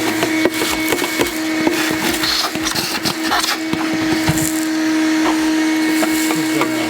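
A small electric motor running with a steady hum of constant pitch, over brisk scrubbing, rubbing and clicking from cleaning work in an engine bay.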